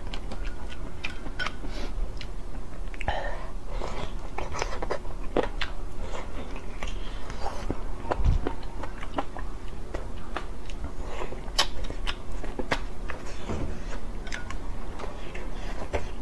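Close-miked eating: a person chewing and biting stewed pork off the bone with sour cabbage, with frequent wet mouth smacks and short sharp clicks. A faint steady hum lies underneath.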